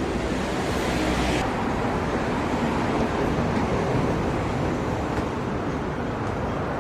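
Steady outdoor traffic noise: a continuous low rumble with hiss, a little brighter for the first second or so.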